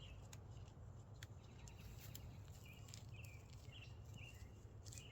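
Near silence: quiet outdoor background with faint, short, high chirps repeating every second or so, and a few soft clicks.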